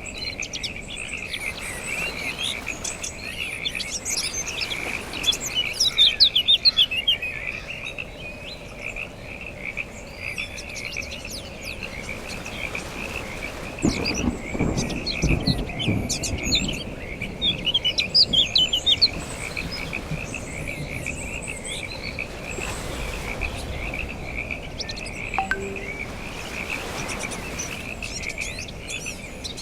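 A dense chorus of frogs croaking in a steady trill, with birds chirping over it. A low rumble comes about halfway through.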